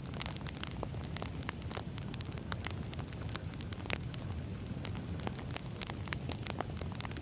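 Wood fire crackling: logs burning with a steady low rumble and frequent irregular sharp pops and snaps.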